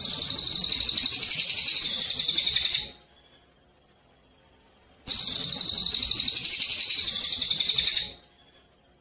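Recorded songbird song played as a training tape for cage birds: two rapid, high trills of about three seconds each, about two seconds apart, each starting and stopping abruptly.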